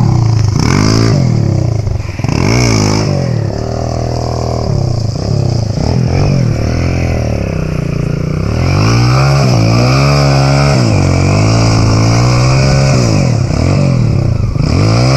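Dirt bike engine being revved again and again, its pitch climbing and falling in short blips, then a longer stretch of wavering revs in the middle before more blips near the end.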